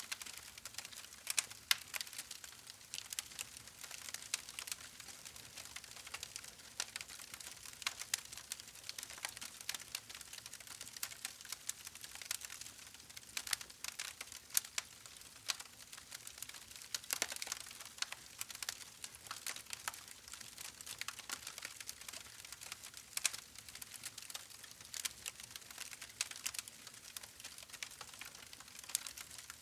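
Wood fire in a fireplace crackling: constant irregular sharp pops and snaps over a soft hiss of burning.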